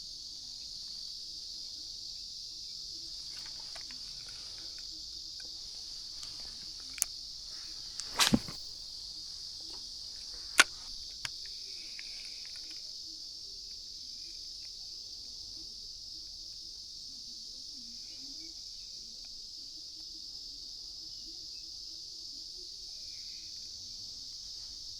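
Steady high-pitched buzzing of an insect chorus in the summer lakeside woods. A few sharp clicks or knocks cut through it about seven, eight and ten and a half seconds in, the one around eight seconds the loudest.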